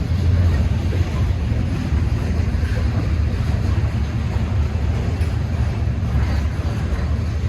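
Train rolling by: a steady, loud low rumble with a noisy hiss over it.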